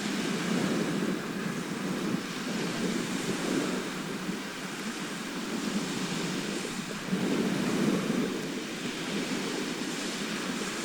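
Sea waves washing ashore in a continuous surf, swelling and easing, with louder swells about a second in and again around seven to eight seconds.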